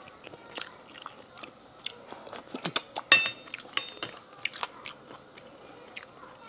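Close-up eating sounds of sea snails: chewing and biting with many small wet clicks, and one sharp ringing clink of a hard object about three seconds in.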